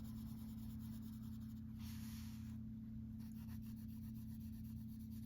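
Prismacolor colored pencil shading across paper: a soft, continuous scratching, a little louder for a moment about two seconds in. A steady low hum runs underneath.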